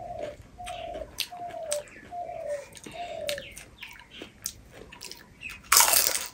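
A bird calls a run of about six short falling notes, roughly one every half second, stopping about three and a half seconds in. Under it, pani puri is chewed and crunched with small clicks, and a louder burst of noise comes near the end.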